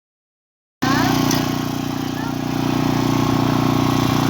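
An engine running steadily with an even hum, cutting in abruptly about a second in.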